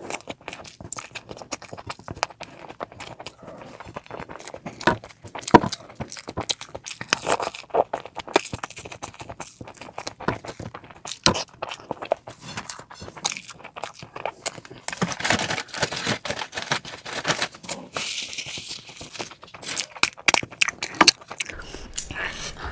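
Close-miked mukbang eating sounds: irregular wet chewing, smacking and crunching clicks as someone eats meat and fish curry.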